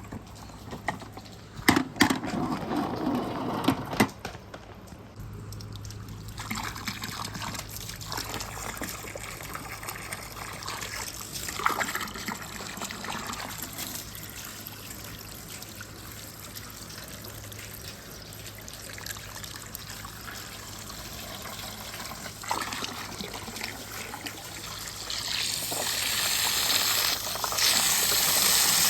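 Water trickling and running down a water marble run, with a few sharp knocks in the first few seconds. The flow grows louder and hissier near the end.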